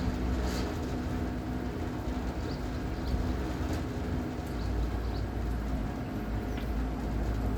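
Electric trimaran underway, its motor giving a steady hum with a few held tones over a low rumble of wind and water.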